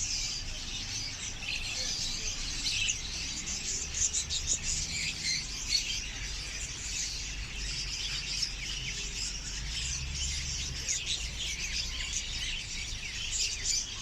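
Many caged budgerigars chirping and chattering at once, a continuous dense chorus of small high chirps.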